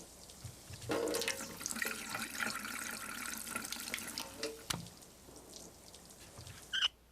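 Cartoon sound effect of water running and splashing onto garden soil for several seconds, fading to a softer trickle, with a short high squeak near the end.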